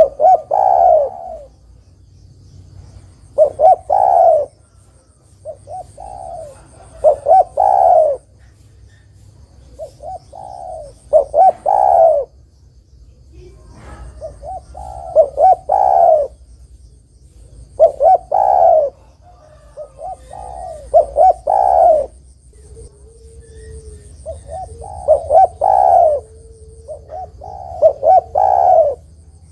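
Spotted dove (derkuku) cooing: phrases of several short coos repeated about every three to four seconds, the last note of each phrase the loudest.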